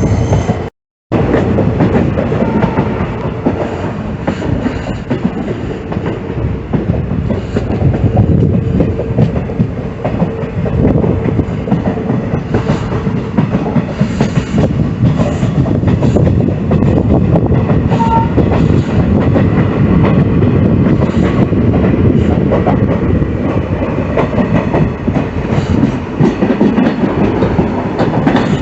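Passenger train running along the track, wheels clattering over the rail joints in a steady rumble. The sound cuts out completely for a moment just under a second in.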